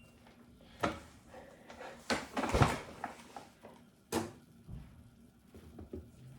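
A few separate knocks and clunks of something being handled, the loudest cluster about two and a half seconds in and another sharp knock about four seconds in.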